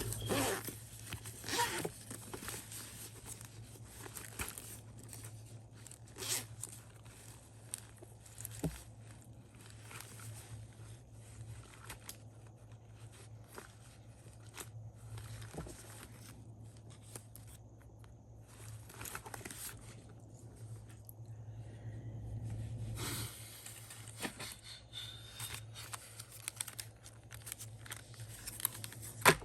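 Paper and sticker sheets being handled at a desk: scattered short tearing and peeling sounds with occasional rustles and scrapes, over a steady low hum.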